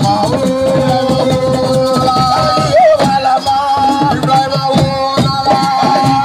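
Live assiko (siko) band music: dense, fast drumming and shaker with long held melodic notes over it.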